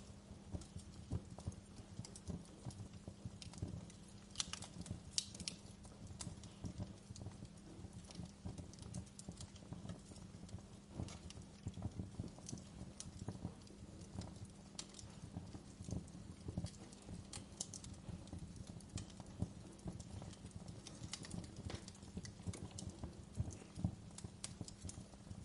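Wood fire burning in a fireplace: a steady low rumble of flames under constant irregular crackling, with sharper pops and snaps every few seconds.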